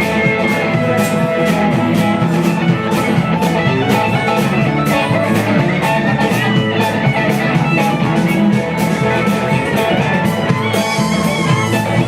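Country-rock band playing an instrumental break, with guitar leading over a steady drum beat.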